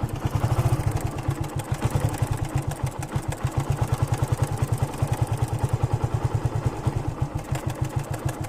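Yamaha FZ16 (FZ version 1) single-cylinder engine idling with an even beat of about a dozen pulses a second, over a continuous mild mechanical noise from inside the engine. The bike is running again after standing unused for a long time, and the owner cannot place the cause of the noise.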